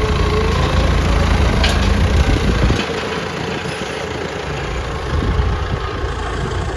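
Engine idling steadily, with heavy wind rumble on the microphone that drops away about three seconds in.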